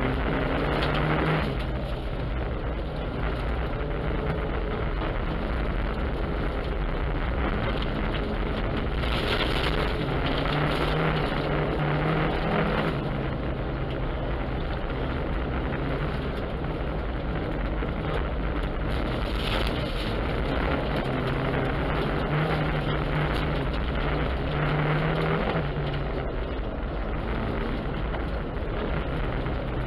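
Opel car's engine running inside the cabin while driving through powder snow, its note rising and falling with the throttle. A broad rushing noise swells twice, about nine and nineteen seconds in.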